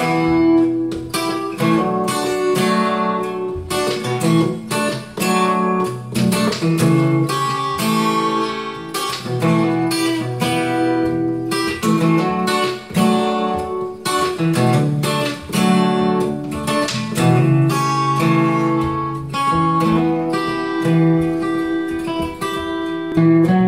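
Instrumental acoustic guitar playing, a steady flow of picked notes and strummed chords.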